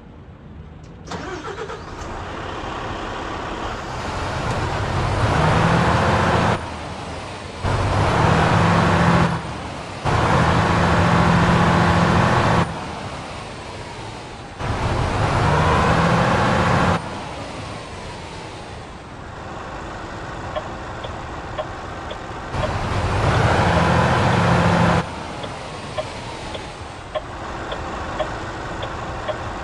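Renault truck diesel engine starting about a second in, then idling and being revved hard five times, each rev held for one to two seconds before dropping back to idle. Light regular ticking runs under the idle near the end.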